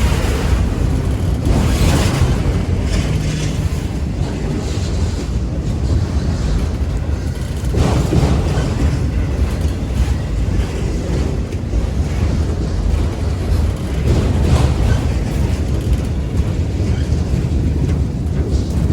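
Freight train of auto-rack cars rolling past with a steady low rumble, while wind buffets the microphone in several gusts.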